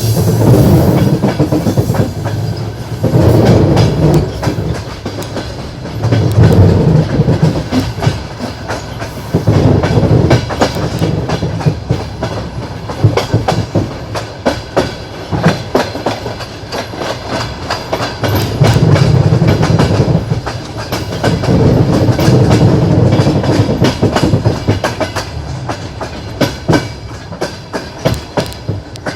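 Passenger train wheels clattering over rail joints in a steady clickety-clack, over a low running rumble that swells and eases every few seconds.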